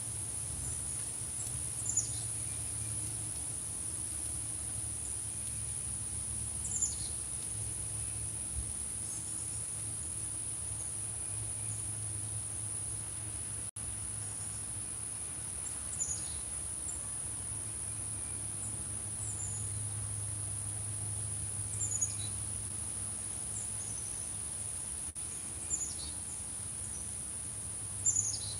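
A steady, high-pitched insect chorus, the sound of crickets. About six short, high bird chirps that slide downward are heard over it, spaced a few seconds apart.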